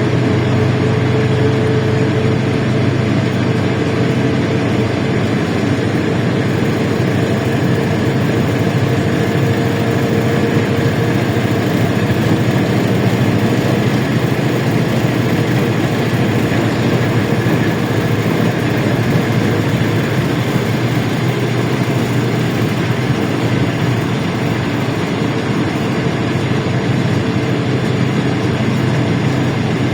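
Inside a LiAZ-677M bus, its V8 petrol engine running steadily with a low drone under a broad, even rush of cabin noise. A faint higher hum fades out about a third of the way through.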